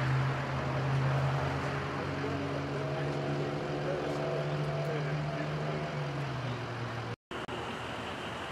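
A vehicle engine idling with a steady low hum. After a brief dropout near the end, the hum is quieter.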